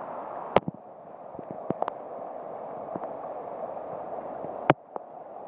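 Floodwater running steadily, with two sharp clicks, about half a second in and again near the end.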